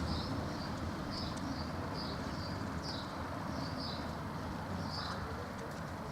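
A small bird chirping repeatedly in short notes, about one or two a second, over a steady low background rumble.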